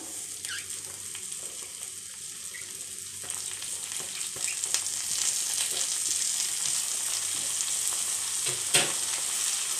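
Onions, green chillies and curry leaves sizzling in hot coconut oil in a frying pan as chopped broccoli florets are dropped in by hand. The sizzling grows louder after about three seconds, and there is one sharp knock near the end.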